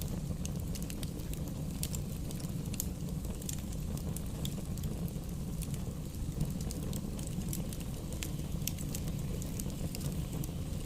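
Wood fire burning in a fireplace, crackling with frequent sharp pops and snaps over a steady low rumble of the flames.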